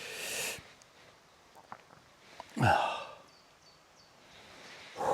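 A man breathes out at the start, then sneezes once, loudly, about two and a half seconds in.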